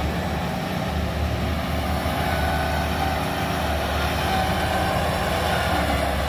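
Heavy earthmoving machinery running steadily, the low, even sound of a big diesel engine working.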